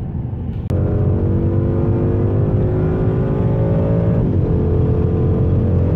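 Ford Mustang GT's 5.0-litre V8 heard from inside the cabin, pulling hard under acceleration. After road rumble, the engine note cuts in abruptly under a second in and rises steadily, dips with an upshift about four seconds in, then pulls on in the next gear.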